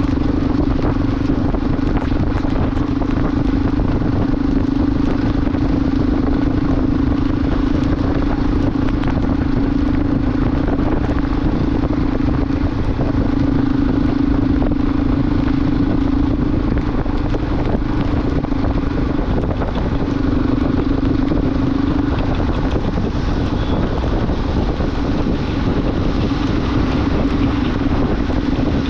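Motorcycle engine running at a steady cruising note under loud wind and road noise. The engine note breaks off briefly a few times in the second half and is weaker near the end.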